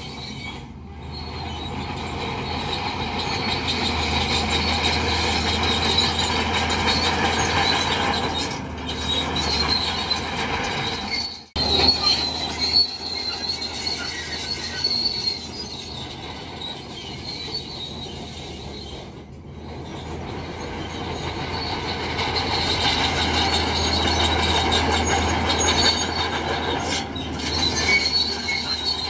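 Bulldozer's diesel engine running under load with a steady low rumble, over a high metallic squeal from the steel tracks and undercarriage that swells and fades as the machine pushes.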